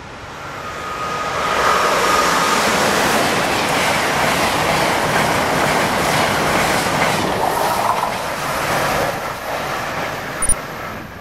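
Amtrak Acela Express high-speed electric trainset passing close at speed: a rush of wheels on rail and air builds over about two seconds, holds loud for several seconds, then eases as the train goes away. A single short knock comes near the end.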